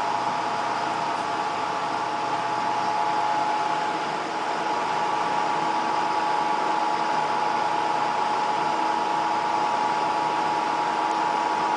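A rotating apparatus whirring steadily, a constant whir with a steady hum of a few tones that does not change.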